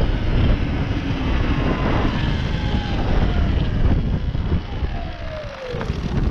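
Electric dirt bike's motor whine falling steadily in pitch as the bike slows to a stop, under heavy wind buffeting on the microphone.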